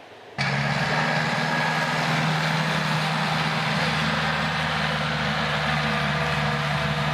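Tractor engine running steadily at a constant speed, starting abruptly about half a second in.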